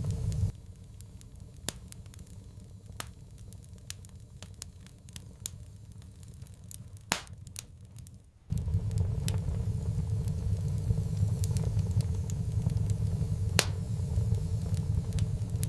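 Wood fire crackling, with scattered sharp pops and snaps. A low rumble under it drops away about half a second in and returns about halfway through.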